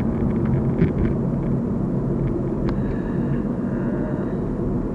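Steady low rumble of a car heard from inside the cabin, engine and road noise, with a couple of faint clicks.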